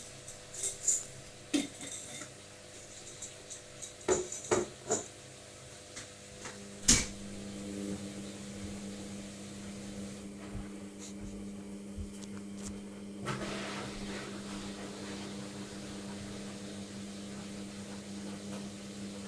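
Logik washing machine on its Baby Care programme heading into the final spin: a few sharp clicks and knocks, then from about seven seconds a steady machine hum sets in and keeps going, with a hiss joining it about halfway through.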